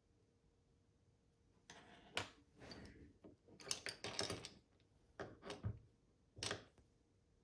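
Light clicks and scrapes of a plastic car-key shell and its tiny screws being handled on a hard surface. They begin about two seconds in, come thickest in the middle, and end with a last sharp click near the end.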